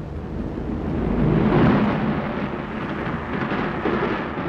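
Train rumbling past, a noisy roar that swells about a second and a half in and then eases off.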